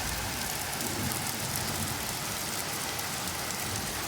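Very heavy rain pouring down, a steady hiss of rain hitting surfaces.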